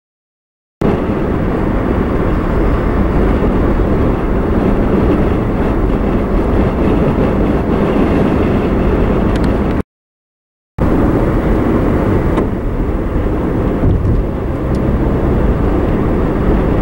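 Steady engine and tyre noise heard from inside a moving car on the road, with two sudden breaks of total silence lasting about a second, right at the start and about ten seconds in.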